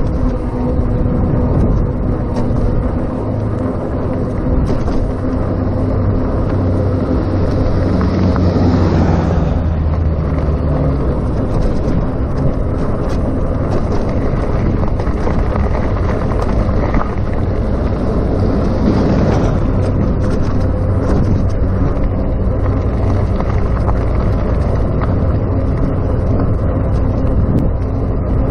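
Riding noise of a RadMini electric bicycle: a steady low rumble of wind and road with a faint steady hum, swelling louder twice, about eight and nineteen seconds in.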